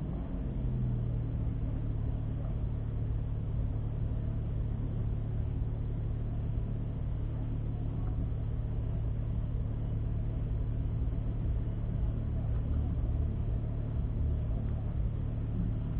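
Volkswagen Golf 7R's tuned turbocharged 2.0-litre four-cylinder idling steadily, heard from inside the cabin as a low, even hum.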